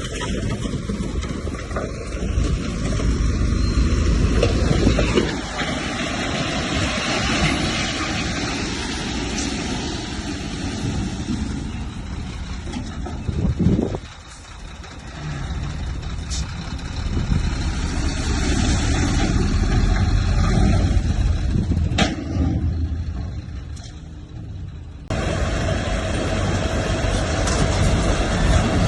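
Heavy earthmoving machinery running, a continuous loud engine noise strong in the low end. It dips sharply about halfway through and changes abruptly near the end.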